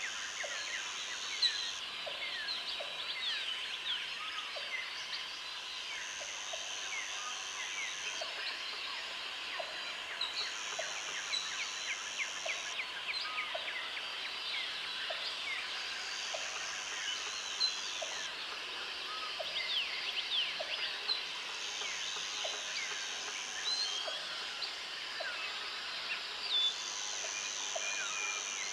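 Jungle ambience: many birds chirping and whistling over each other, with a high insect buzz that switches on for a couple of seconds at a time and stops, and a short low call repeating about once a second.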